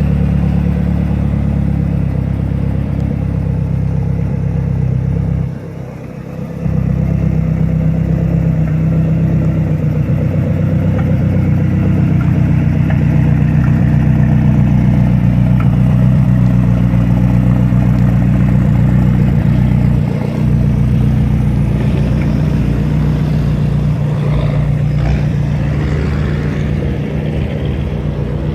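Twin-turbo Lotus engine idling steadily with a deep, even rumble. It goes briefly quieter about six seconds in.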